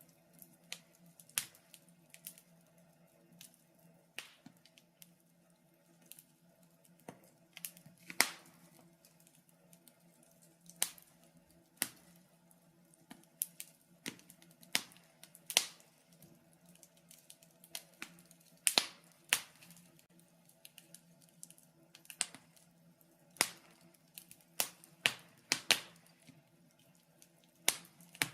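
Wood fire crackling in a fireplace: irregular sharp pops and snaps, some of them loud, over a faint steady hum.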